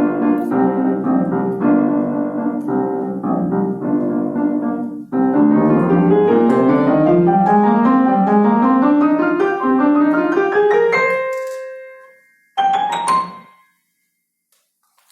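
Solo piano playing the closing bars of a piece. Busy repeated figures give way, about five seconds in, to fast runs sweeping upward, which ring out and fade. Near the end comes one short final chord, cut off quickly.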